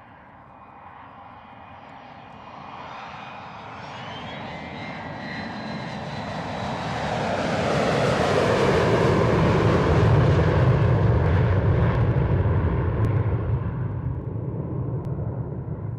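Fixed-wing aircraft passing close by, its engine noise building steadily to a loud peak about ten seconds in and then fading away, with a thin high whine heard as it approaches.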